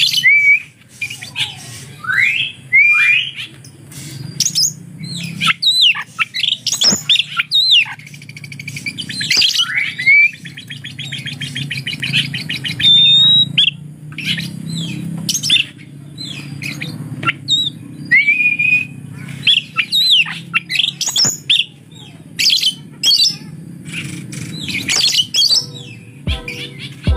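Oriental magpie-robin (kacer) singing a varied song of rising whistled glides, rapid trills and harsh squawking notes, with imitations of lovebird calls among its phrases. A low steady hum runs underneath.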